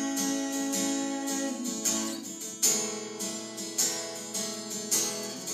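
Acoustic guitar strumming chords, with a fresh strum about every second that rings on between strokes.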